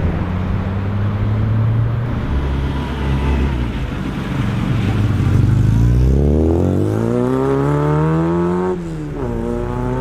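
Car engine pulling away: a low rumble for the first half, then revs climbing steadily. A sudden dip just before the end, followed by a fresh climb, is typical of a gear change under acceleration.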